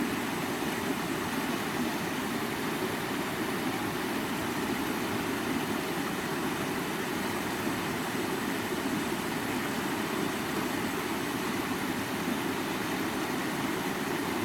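Water of a stream running over rocks, a steady rushing with no breaks.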